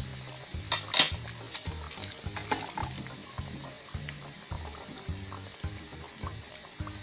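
Breadcrumb-coated chicken pieces sizzling as they deep-fry in hot oil, with a few sharp clicks, the loudest about a second in. A steady low musical beat runs underneath.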